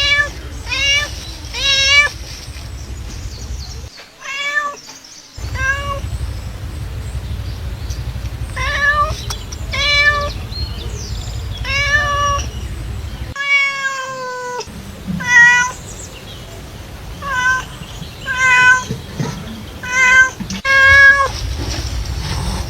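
Domestic cat meowing over and over, about fifteen short meows at irregular gaps of one to two seconds, with one longer, drawn-out meow about two-thirds of the way through. A low steady hum runs behind and cuts out abruptly twice.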